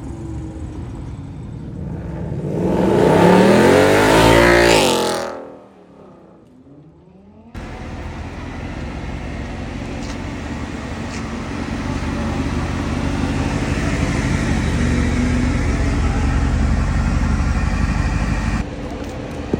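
A sports car's engine revs loudly about two seconds in, its pitch climbing and then falling away within a few seconds. After a brief lull, a steady low engine rumble with road noise starts abruptly and cuts off shortly before the end.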